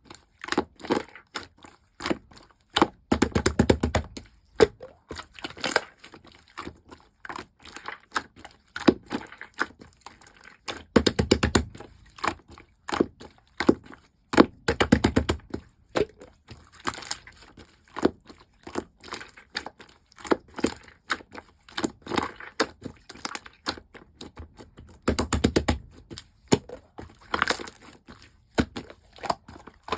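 Clear slime being squished and pressed by hand, giving a steady run of sticky clicks and pops, with several denser bursts of crackling squelches.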